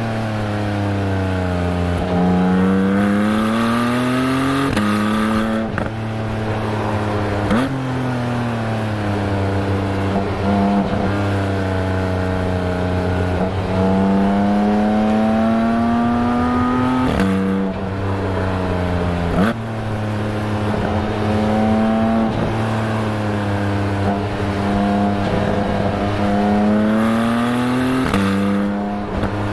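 2021 Porsche 718 Spyder's 4.0-litre flat-six exhaust under way. The revs climb and fall repeatedly, with several abrupt pitch jumps as the PDK gearbox shifts. With the microphone on the rear bumper near one tailpipe, the low-rpm note comes out farty, which is not how the car sounds on a drive-by.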